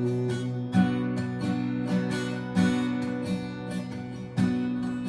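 Acoustic guitar strumming chords in an instrumental gap of a song, with no voice; the strongest strums come about a second in, past the middle, and near the end.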